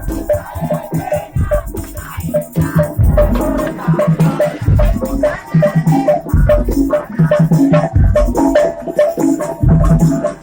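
Loud percussion-band music: heavy drum beats in a driving rhythm, with rattling percussion and a short pitched figure repeated over and over.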